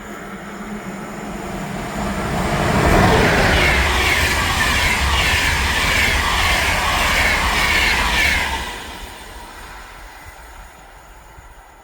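A train passing by on the line: it builds over the first three seconds, holds loud for about five seconds with rumble and rail noise, then fades away.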